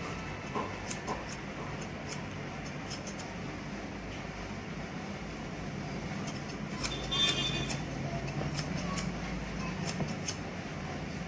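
Barber's scissors snipping through hair in irregular runs of sharp snips, over a steady low hum. A brief high squeak about seven seconds in.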